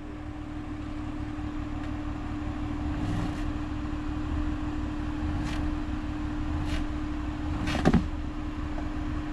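Off-road side-by-side engine running steadily at low revs, with a constant hum over a low rumble. Several short sharp knocks come through, the loudest about eight seconds in.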